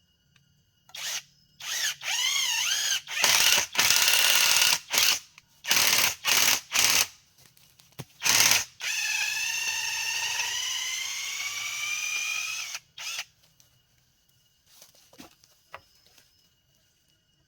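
Cordless drill running in a series of short bursts, then one longer run of about four seconds whose whine rises in pitch. Insects trill faintly and steadily underneath.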